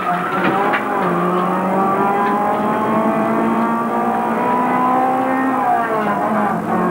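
Toyota Corolla touring car's four-cylinder engine at racing revs, heard from inside the cabin. There is a gear change about a second in, then the revs climb steadily, and the pitch falls near the end as the car slows for a corner.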